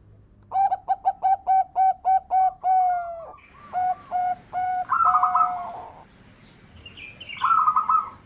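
Zebra dove (perkutut) singing: a quick run of about nine short cooing notes, then a few longer drawn notes. A higher trilling phrase comes twice, about five seconds in and near the end.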